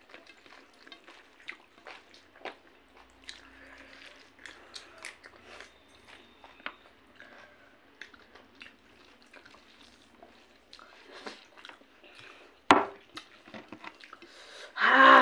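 A person chewing and biting chicken and rice eaten by hand, with many small wet clicks and mouth noises. A sharp knock about twelve and a half seconds in, and a louder rough burst of noise near the end.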